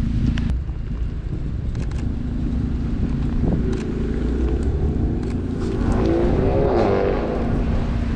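Car engine running steadily, with a pitch that climbs and then drops back between about four and seven seconds in.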